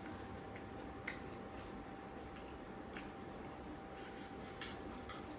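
Quiet eating sounds: a few scattered small clicks and mouth noises, the loudest about a second in, over steady background noise with a faint steady hum.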